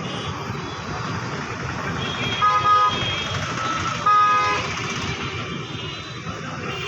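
Passing road traffic with two short vehicle horn honks, one about two and a half seconds in and another about four seconds in.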